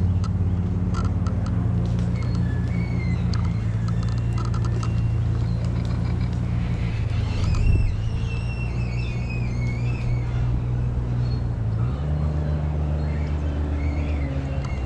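An engine running steadily with a low hum, its pitch shifting about twelve seconds in.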